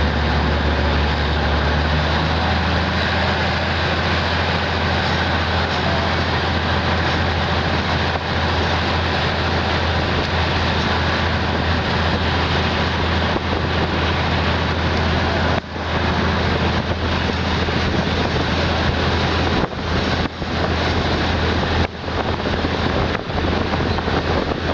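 Passenger train running: a steady, loud rumble and hiss with a constant low drone underneath, broken by a few brief dips in level in the second half.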